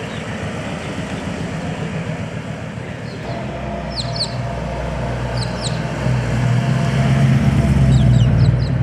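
A car engine running and growing steadily louder until near the end, as if a vehicle is approaching. Birds chirp briefly a few times over it.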